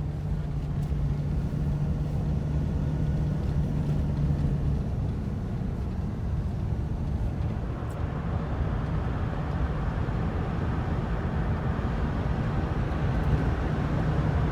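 A vehicle driving on the road: a steady engine drone over tyre and road noise. The low hum is strongest in the first few seconds, and the noise gets brighter from about eight seconds in.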